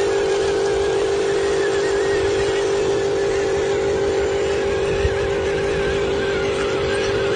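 Small electric motor and gears of a radio-controlled construction model whining at one steady pitch, over a constant noisy hum.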